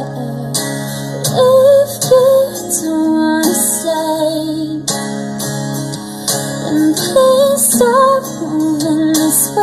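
A female voice sings a wavering melody over guitar accompaniment, a passage of a slow pop song.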